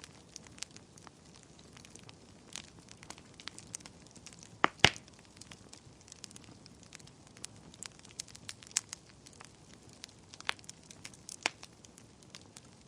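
Wood fire burning in a fireplace: a low hiss of flame with scattered sharp crackles and pops, the loudest pair of pops just before five seconds in.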